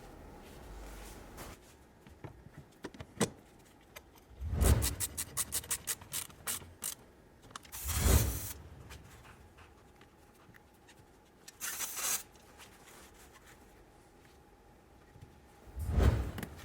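Repair work on a van's cooling system: parts and tools being handled. There are three heavy thumps, the first followed by a quick run of sharp clicks, about six a second for two seconds, and a short hiss about twelve seconds in.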